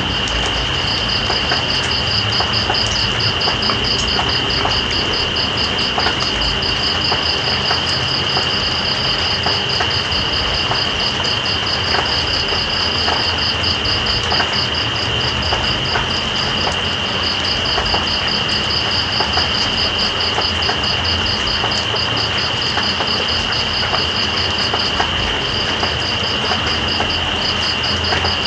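Night insects calling: one holds a steady high-pitched trill while another pulses rapidly just above it. Underneath is an even hiss of rain with faint scattered drip ticks, all unchanging.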